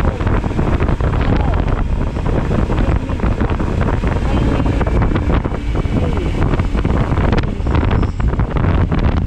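Wind buffeting the camera microphone of a moving motorcycle, a steady loud rush over the low running sound of a Suzuki V-Strom 1000XT V-twin.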